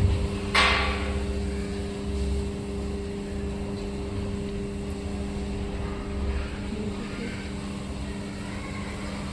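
A steady low mechanical hum with an uneven rumble underneath, and one short knock about half a second in.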